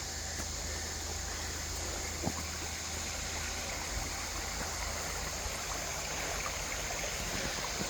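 Creek water flowing steadily, with a few faint clicks over it.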